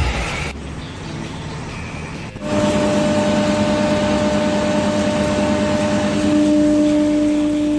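A heavy vehicle or machine running with a steady hum over a rumble. The sound cuts abruptly twice, jumping louder about two and a half seconds in.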